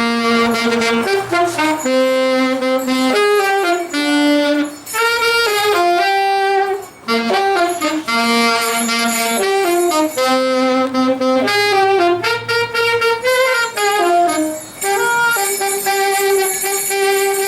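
Live wind-instrument music, saxophone-like in tone: a melody of short and held notes stepping up and down in a steady rhythm, with a low bass note held under parts of it.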